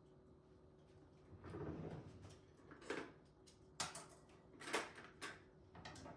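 Small household handling sounds in a quiet kitchen: a brief rustle, then several light knocks and clicks, like things being set down or cupboards and drawers being worked. A faint steady hum runs underneath.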